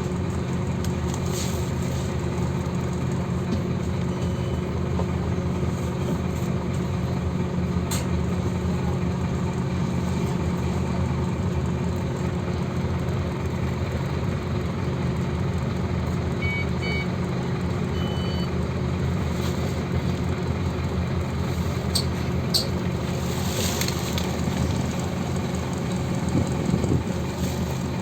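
Scania OmniLink CK270UB city bus engine running with a steady low hum. A few short high electronic beeps sound about two-thirds of the way through.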